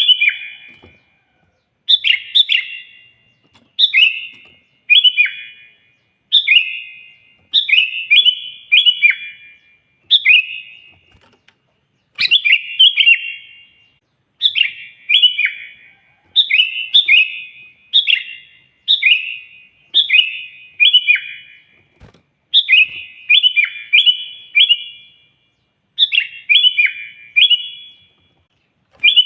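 Sooty-headed bulbul (kutilang) singing loudly: short, bubbly phrases of two to four quick notes, repeated every second or two with brief pauses between.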